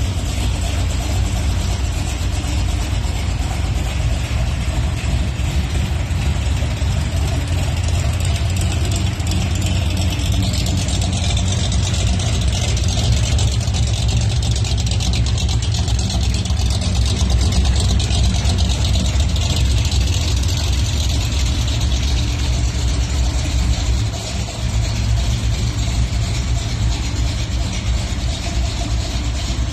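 Pickup truck engine running steadily, with most of its sound low, and a brief drop in level about two-thirds of the way through.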